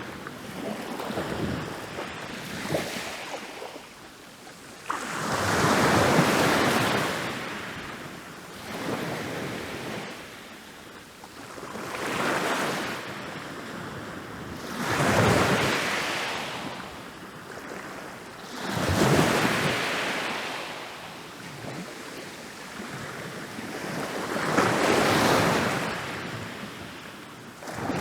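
Ocean waves breaking on a beach, each surge swelling up and washing out again, about every three to six seconds.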